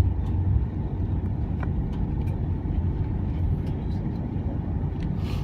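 Steady low rumble inside the cabin of an Airbus A330-300 airliner, with a few faint clicks and a brief hiss near the end.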